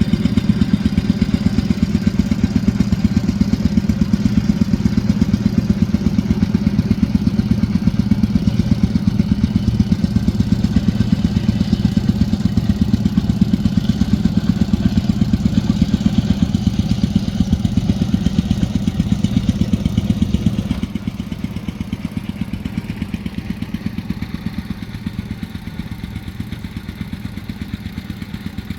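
A small engine running steadily at idle, with an even, fast pulse that drops a little in level about twenty seconds in.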